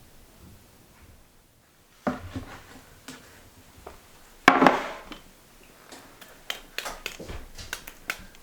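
Close-up handling sounds of objects being set down and moved: a knock about two seconds in, a louder clatter with a brief ring about halfway, then a run of light clicks and taps.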